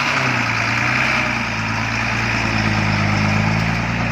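Diesel engine of a Hino F18 ten-wheel truck running steadily, its pitch rising slightly near the end.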